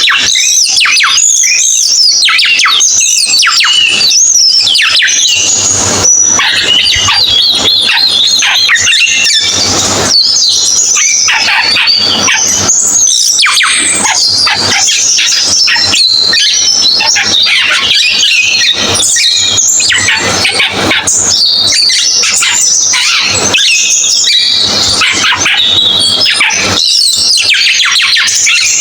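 Cucak keling songbird singing continuously: a loud, fast, unbroken stream of varied chirps, squeaky whistles and rapid trills that keep changing pitch.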